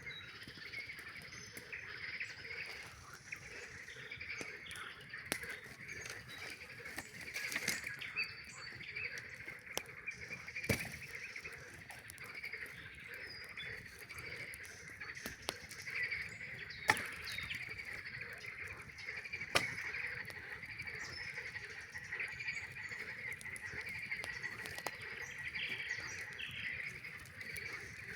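Chorus of frogs calling steadily and densely, with a campfire crackling and giving off a few sharp pops, the loudest about two-thirds of the way through.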